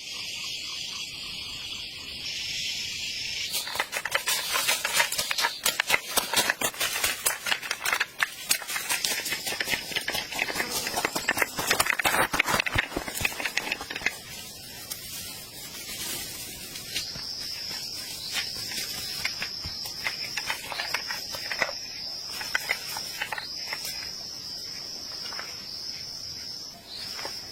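Insects trilling steadily at a high pitch, with a dense run of clicks and crackles from about four to sixteen seconds in.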